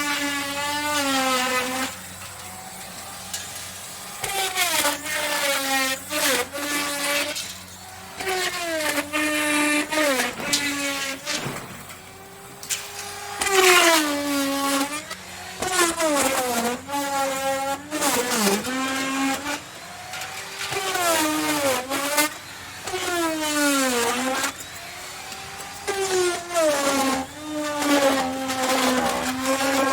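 Electric wood router cutting wood in a series of passes: the motor's whine drops in pitch each time it bites in, then climbs back as it frees up, again and again about every two seconds.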